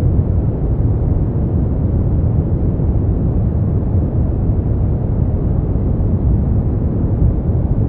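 Steady brown noise: an even, deep rushing hiss, strongest in the bass and dull in the highs, with no changes.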